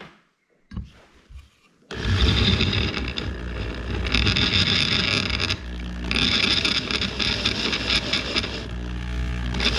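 Drill boring out the mounting holes in a steel bracket: high grinding in three bursts of about a second and a half each, starting about two seconds in, over a steady low rumble.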